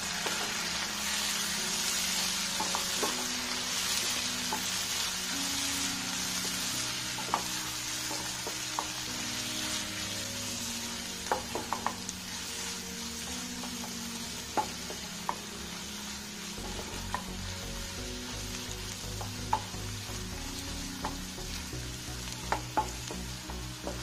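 Onion, tomato and spice masala sizzling in a nonstick frying pan as it is stirred with a wooden spatula, with scattered light taps of the spatula against the pan.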